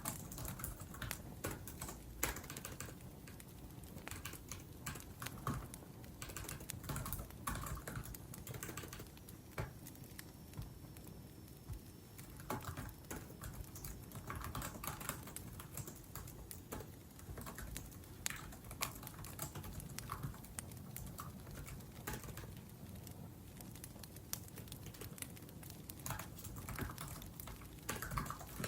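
Typing on a laptop keyboard: clusters of quick key clicks with short pauses between them, easing off for a couple of seconds about ten seconds in. A wood fire crackles and burns underneath.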